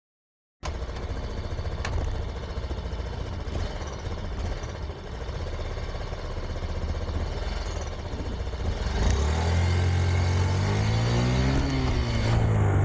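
Small motorcycle engine running, cutting in abruptly about half a second in; from about nine seconds in it pulls away with its pitch rising, drops briefly as if at a gear change, then rises again.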